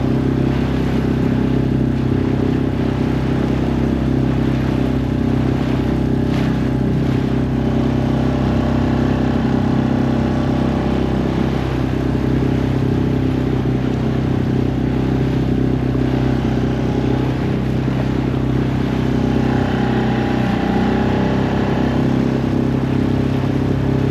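Outboard motor of a small inflatable boat running steadily at a low cruising speed of about 4 knots, a loud, even engine note.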